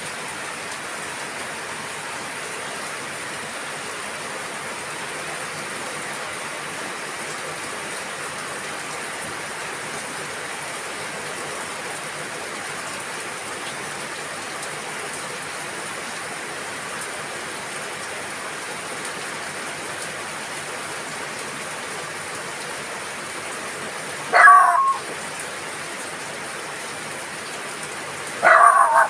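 Steady rain falling, an even hiss of drops. A dog barks twice near the end.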